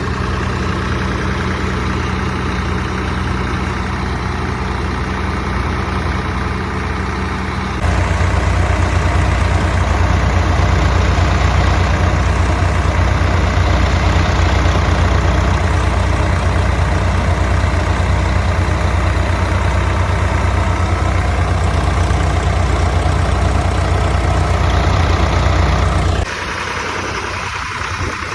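Swaraj 744 tractor's three-cylinder diesel engine running steadily at idle with a low, even rumble. The engine gets abruptly louder about eight seconds in and drops back just as abruptly near the end.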